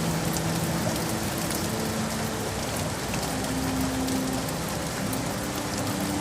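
Steady city rain falling as an even hiss with fine drop ticks, with soft, slow music of held low notes underneath.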